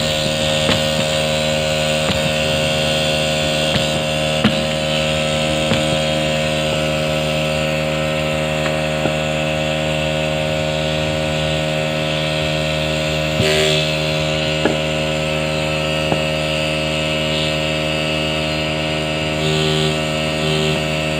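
A steady mechanical drone at a fixed pitch, like a small motor running, with occasional light clicks and knocks over it.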